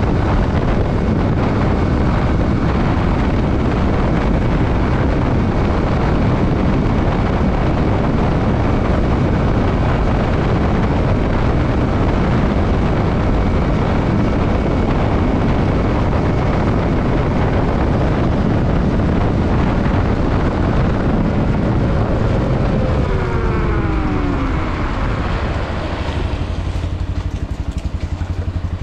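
Yamaha WR155R single-cylinder trail motorcycle riding at speed, its engine almost buried under heavy wind rush on the microphone. Past the middle the engine note falls steadily as the bike slows, and it settles into a quieter, lower run near the end.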